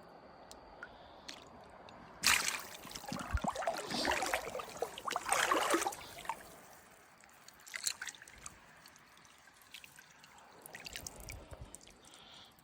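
Water splashing loudly for a few seconds, starting suddenly about two seconds in, then dripping and trickling more quietly.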